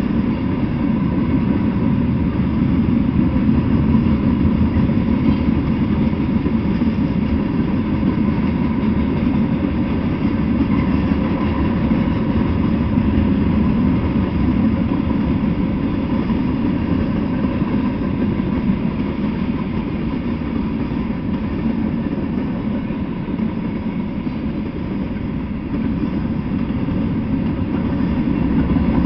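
Freight train cars rolling past at steady speed: a continuous rumble of steel wheels on the rails as covered hoppers and tank cars go by, easing slightly and swelling again near the end.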